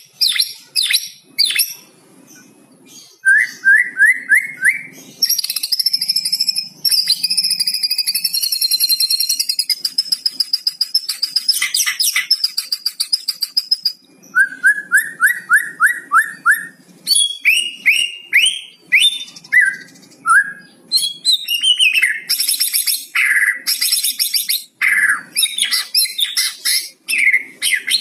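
White-rumped shama (murai batu) singing loudly in varied phrases: quick runs of five or six repeated whistled notes, high trills, and a long rapid rattling 'kretekan' stretch in the middle. It is a lure song meant to set other shamas singing.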